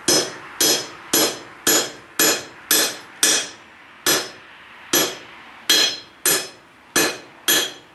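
Hand hammer striking a hot iron nail blank held in a nail header over the anvil's pritchel hole, upsetting it into a nail head. About two sharp, ringing metal-on-metal blows a second, with a short pause about halfway through.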